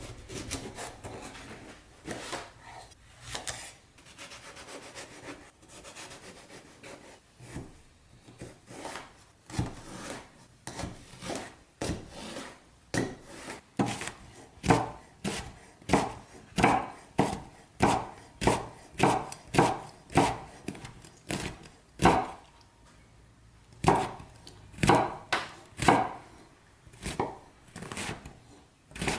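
A kitchen knife halving and dicing an eggplant on a cutting board. It starts with softer, irregular slicing strokes, then settles into steady chopping at about one to two knife strikes a second.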